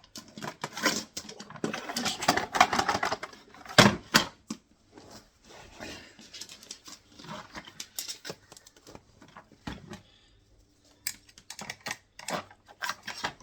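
Net curtain wire scraping and rattling inside the plastic duct of a Dyson vacuum cleaner as it is worked to chip out a lodged piece of onion blocking it. A dense run of clicks and scrapes, with a sharp knock about four seconds in, gives way to scattered clicks and taps.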